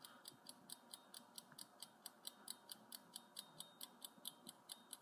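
Faint clock-ticking sound effect marking a countdown timer, with short, even ticks about four or five times a second.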